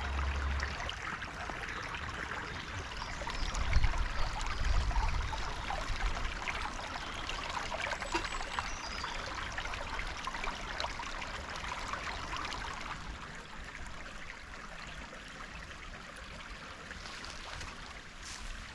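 Woodland stream running steadily over stones, a continuous rushing and trickling. A brief low rumble comes about four seconds in, and the water sounds a little quieter in the later part.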